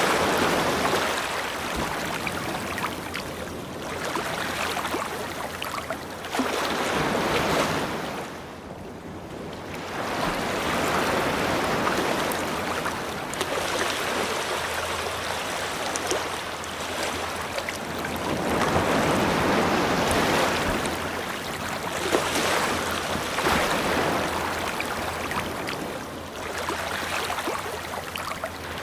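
Ocean waves breaking and washing up a beach, the surf swelling and falling back every few seconds with a lull partway through.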